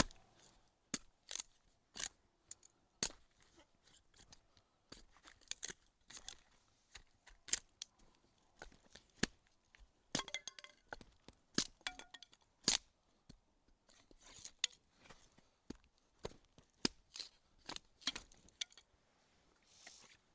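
Kindling being prepared for a campfire: small dry sticks snapped and bark torn, giving irregular sharp cracks and crunches with short quiet gaps between them.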